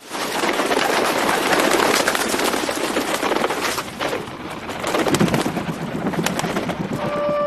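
A loud, even rush of noise with bird sounds in it, easing for a moment midway. A held musical note comes in near the end.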